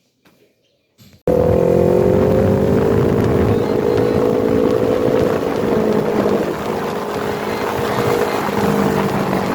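A motor vehicle's engine running steadily under way, a held drone drifting slightly lower in pitch over road noise. It cuts in suddenly about a second in, after near silence.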